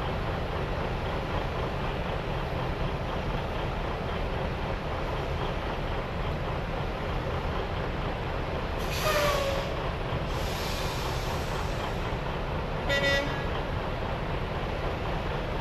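Truck engine running steadily. About nine seconds in comes a short hiss with a falling tone, and about thirteen seconds in a brief horn toot.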